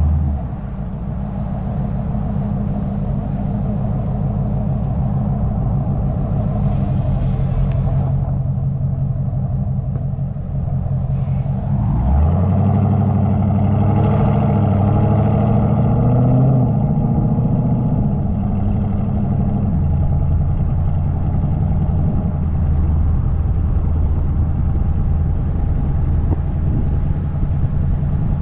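Car engine running steadily with a deep drone. About halfway through, the engine note changes and rises for a few seconds, then settles back to a steady drone.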